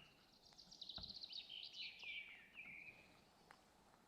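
Faint songbird song: one phrase of rapid high chirps that slides down in pitch over about two seconds, over a faint outdoor hiss.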